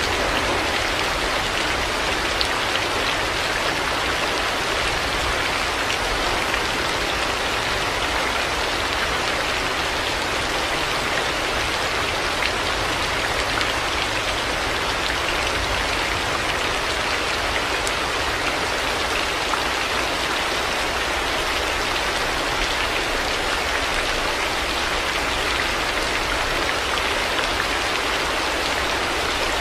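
Heavy rain falling steadily: an even, dense hiss of drops with no breaks.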